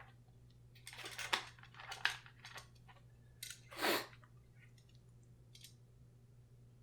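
Short crinkles and rustles of plastic toy packaging being handled and opened, in several separate bursts, the loudest about four seconds in.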